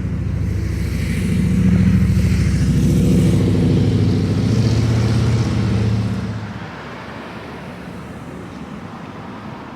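A motor vehicle's engine passing close by, swelling up, then fading away about six and a half seconds in, leaving a quieter steady background.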